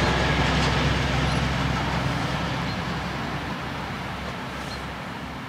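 A Class 218 diesel-hydraulic locomotive and its train recede into the distance. The low engine rumble and rolling noise die away steadily.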